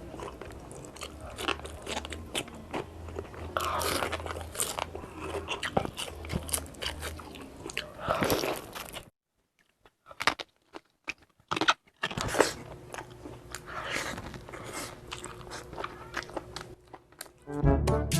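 Close-up mukbang eating sounds: biting into and chewing crunchy food, with many irregular crunches. There is a short near-silent break about nine seconds in, and music comes in near the end.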